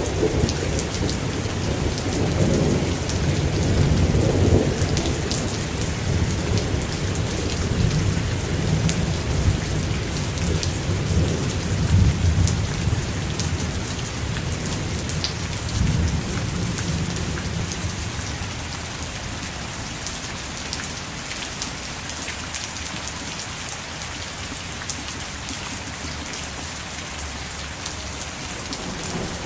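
Steady rain hiss with rolling thunder. The thunder rumbles through the first half and dies away about two-thirds in, leaving the rain on its own.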